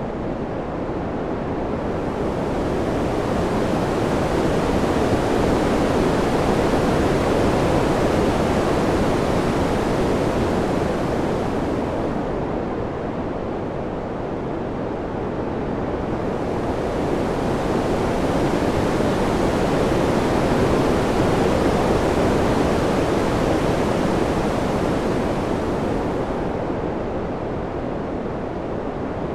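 Wind ambience: a steady rushing noise with no whistles or distinct gusts, swelling and easing in two slow waves about thirteen seconds apart.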